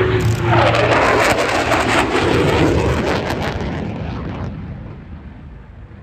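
Eurofighter Typhoon jet with two Eurojet EJ200 turbofans making a fast pass, a loud crackling jet roar with a pitch that slides down as it goes by. The roar fades away over the last couple of seconds.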